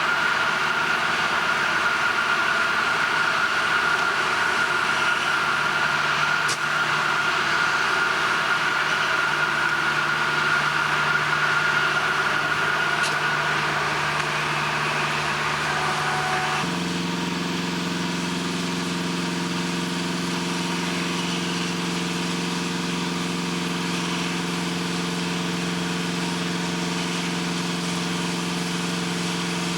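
Heavy machinery running steadily with a constant high whine. About halfway through, the sound changes abruptly to a lower, even engine hum.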